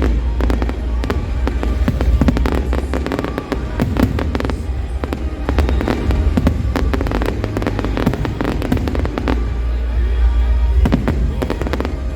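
Fireworks display: many rapid bangs and crackles going off over a deep, steady boom of show music.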